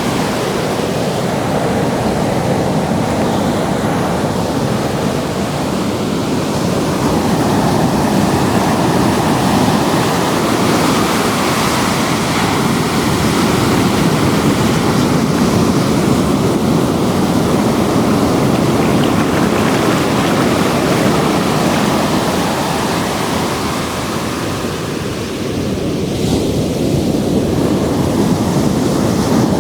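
Ocean surf washing in and breaking, a steady rushing wash with a slight ebb a little before the end before it swells again.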